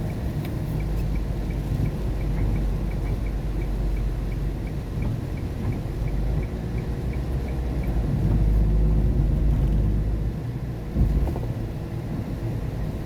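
Steady low rumble of car road noise heard inside the cabin, tyres running on a rain-wet road. A faint quick ticking, about three a second, runs through the first eight seconds, and there is a single thump about eleven seconds in.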